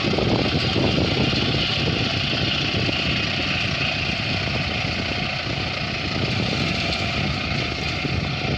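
A motor running steadily, without revving up or down.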